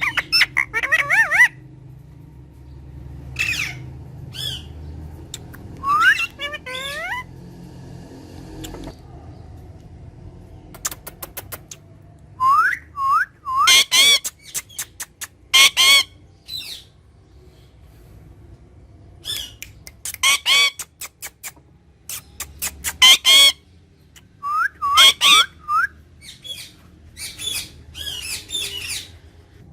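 Pet parrot whistling and squawking in short bursts: quick rising whistled notes, several loud harsh squawks and series of clicks, repeating every few seconds.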